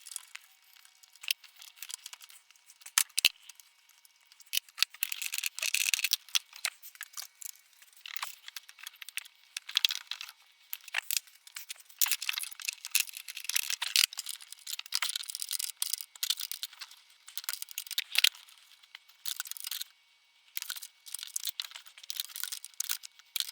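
Irregular clicks, scraping and crinkling from hand tools and a thin sheet-metal exhaust heat shield being worked loose, with no steady rhythm.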